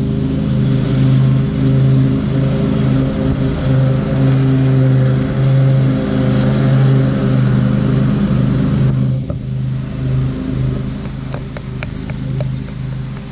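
An engine running steadily at a constant pitch, with a hiss over it that drops off about nine seconds in, leaving the engine note and a few light clicks.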